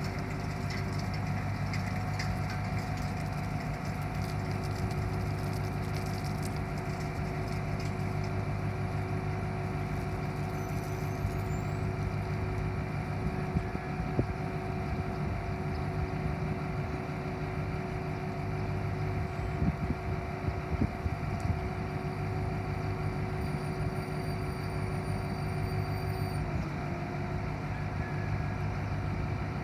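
1990 Ford C8000 bucket truck's engine running steadily at idle, with a steady whine over the hum that dips briefly in pitch near the end and a few light knocks or clicks midway.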